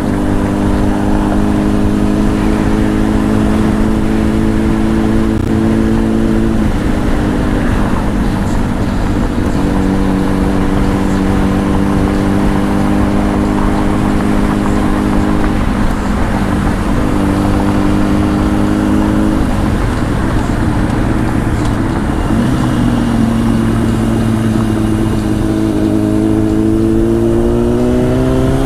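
Honda CBR1000's inline-four engine running through a Two Brothers aftermarket exhaust while riding. The engine note holds steady in stretches, shifts pitch a few times, then rises steadily over the last few seconds as the bike accelerates.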